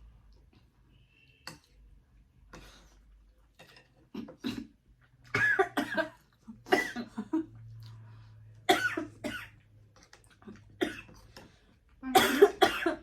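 A person coughing in several short bouts, the loudest near the end.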